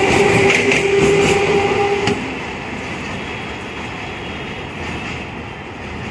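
Electric multiple-unit (EMU) local train departing, its coaches rattling past with a steady whine and a few wheel clicks over rail joints. About two seconds in, the last coach goes by and the sound drops suddenly to a quieter rumble that fades as the train recedes.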